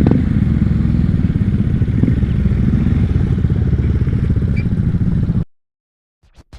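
Honda Grom's 125 cc single-cylinder engine running steadily, close up. It cuts off abruptly about five and a half seconds in.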